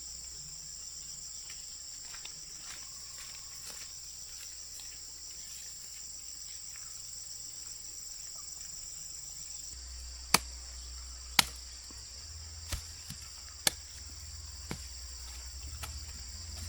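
Steady, high-pitched chorus of insects, such as crickets or cicadas. About ten seconds in, five or six sharp knocks come at irregular intervals about a second apart.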